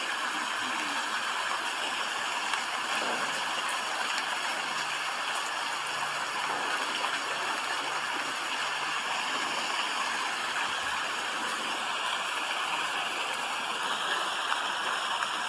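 Steady rain, an even hiss with no breaks or distinct drops standing out.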